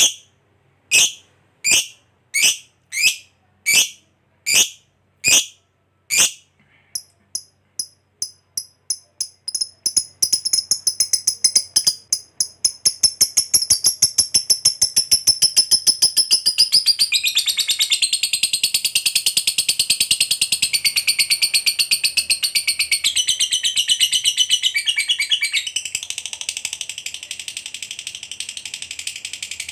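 A lovebird calling: a series of separate shrill calls about twice every three seconds that speed up into a long, rapid, unbroken chattering trill, the prized 'ngekek panjang' long chatter.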